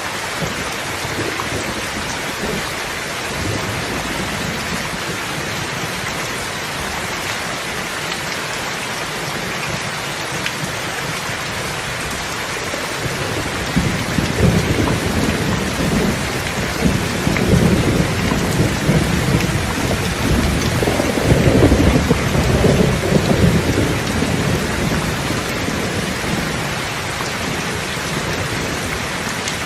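Steady rain falling, with a long rumble of thunder that builds from about halfway through, is loudest about three quarters of the way in, then dies away.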